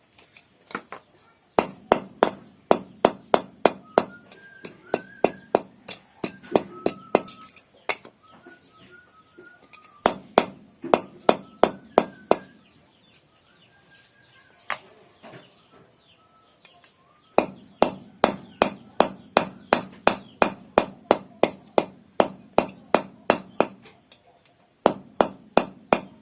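Rapid series of sharp knocks, like blows from a hand tool, struck in runs of several seconds at about three to four a second with short pauses between, while birds chirp faintly.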